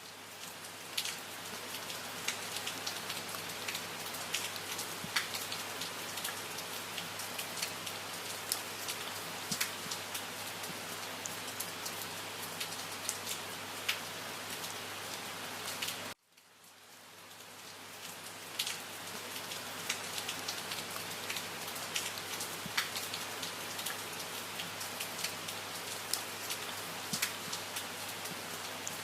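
Steady rain falling, with individual drops ticking through the hiss. About halfway through it cuts out abruptly and fades back in over a couple of seconds, as a looped recording restarts.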